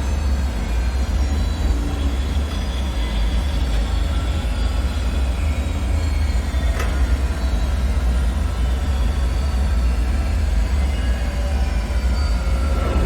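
Dark-ambient bunker soundscape: a deep, steady rumble with faint high tones drifting up and down over it, and a single sharp tick about seven seconds in.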